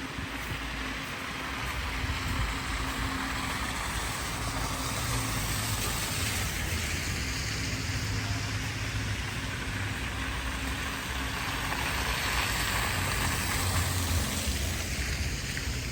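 Street traffic: passing vehicles' engines and tyre noise, a steady rumble and hiss that swells to a peak near the end.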